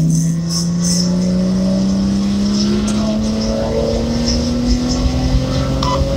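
A 2004 BMW 330i ZHP's straight-six engine pulling in third gear out of a corner, heard from inside the cabin, its note rising steadily as the revs climb from about 3,300 to 5,200 rpm.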